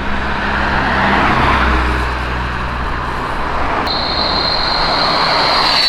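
A car's engine running low and steady as it drives past with road noise. About four seconds in, a single high steady whistling tone starts up and holds, the weirdest sound ever heard from a car.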